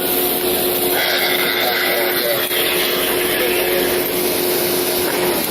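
A vehicle engine running at a steady pitch over road noise, its pitch sliding down near the end as it winds down or moves off.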